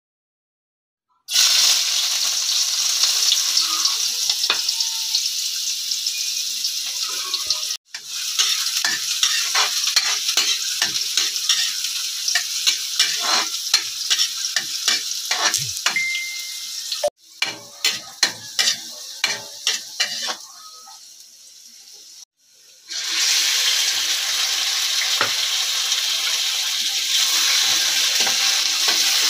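Chopped onion and garlic, then pieces of raw chicken, sizzling in hot oil in a metal wok, stirred with a metal ladle that clicks and scrapes against the pan. The sizzle cuts off abruptly a few times, and in the middle comes a run of sharp knocks of the ladle on the wok.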